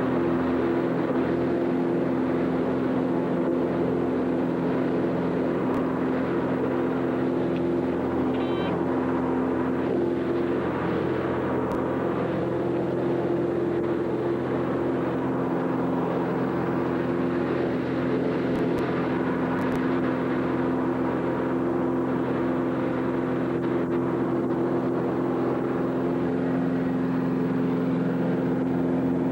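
A vehicle engine running at a steady speed, a constant drone that holds one pitch throughout.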